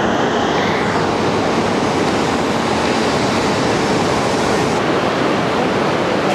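Steady rushing noise of a Tohoku Shinkansen Hayate train set standing at the platform while its cars are uncoupled. A high motor whine fades out about a second in.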